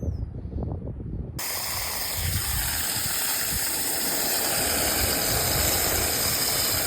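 A spray nozzle hissing steadily as liquid is sprayed during cleaning of the RV air conditioner's coil and filters, switched on suddenly about a second and a half in. Before it, low wind rumble on the microphone.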